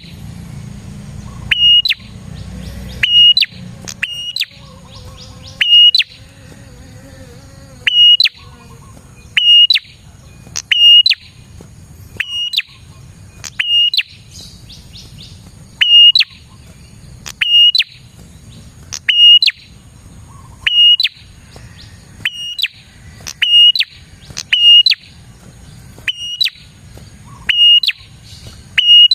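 Prenjak (prinia) calling: short, sharp high notes, mostly in pairs, repeated every one and a half to two seconds.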